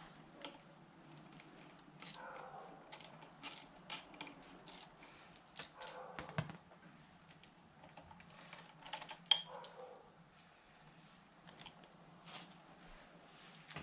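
Hand tools and small metal parts clinking and clicking at irregular intervals during work on motorcycle handlebar controls, with one sharper click about nine seconds in.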